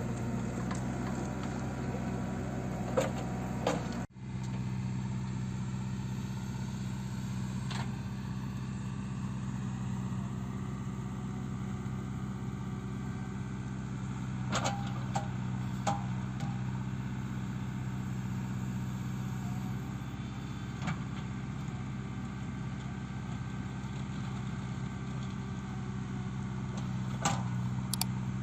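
JCB 3CX backhoe loader's four-cylinder diesel engine running at a steady low speed, with a few sharp knocks here and there; the sound cuts out for an instant about four seconds in.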